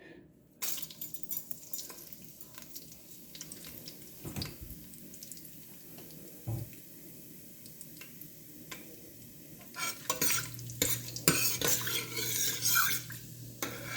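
Whole spices (fennel seed, star anise, cinnamon stick, cloves) frying in hot ghee and oil in a pan: a light sizzle with a spoon clicking and scraping against the pan. The stirring gets busier about ten seconds in, when a low steady hum starts.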